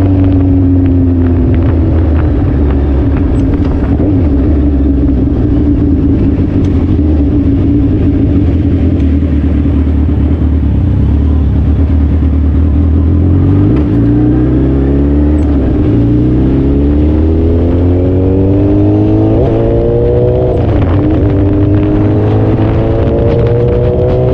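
Suzuki Hayabusa's inline-four engine heard from the bike while riding: a steady cruise for about the first half, then accelerating, its pitch rising with a few quick dips where it shifts up through the gears.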